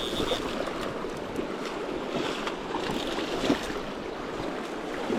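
Fast river current rushing steadily, with small scattered splashes and knocks.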